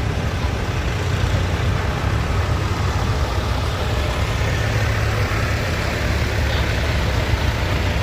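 Antique tractor engine running steadily.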